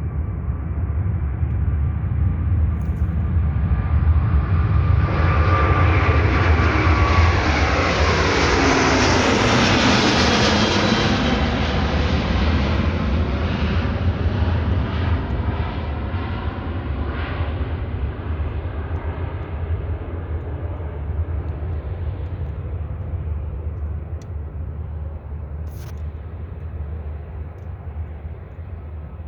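Airbus A350-900's Rolls-Royce Trent XWB turbofans at takeoff thrust as the jet passes: the roar swells over the first several seconds, a whine glides down in pitch as it goes by, and the roar then slowly fades away.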